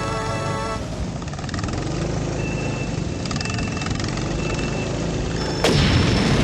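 Background music stops about a second in, leaving rental go-kart engines running under a steady noisy wash on a wet track. Near the end a sudden, much louder rush of noise cuts in.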